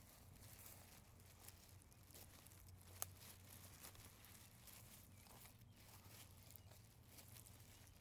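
Near silence with faint rustling and footsteps in dry leaf litter, and one sharp click about three seconds in.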